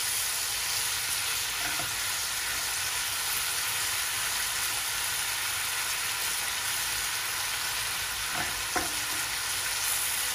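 Shrimp, sliced peppers and carrots sizzling in a frying pan with a steady hiss, stirred with a wooden spatula, with a few light knocks of the spatula against the pan, two of them near the end.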